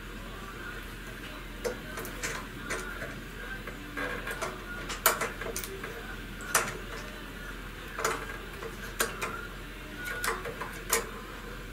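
Small metal carburettor parts clinking and tapping as they are handled and fitted, in irregular sharp clicks, with a steady low hum underneath.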